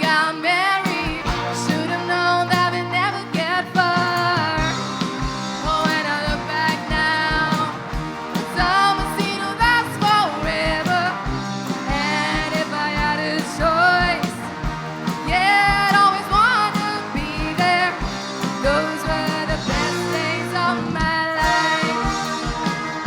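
Rock music with guitar over a steady kick-drum beat of about two beats a second, with bending melody lines.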